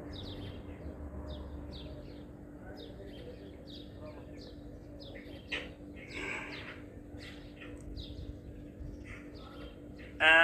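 Small bird chirping over and over, a short high chirp about every half second, over a low steady hum. Right at the end a loud, wavering animal call cuts in.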